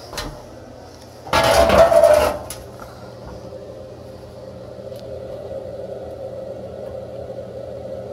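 Metal clattering and rattling for about a second, then a steady machine hum.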